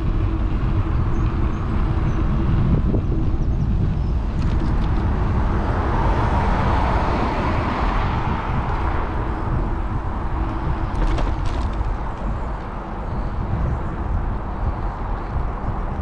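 Wind rumbling on an action camera's microphone while cycling alongside road traffic. A vehicle passes, its noise swelling and fading between about five and ten seconds in.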